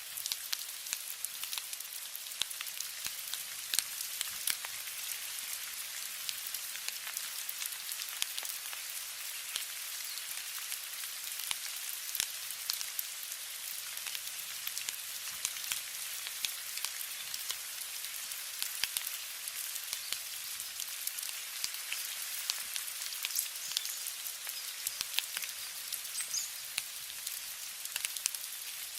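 Steady rain: an even high hiss with many sharp drop ticks scattered through it.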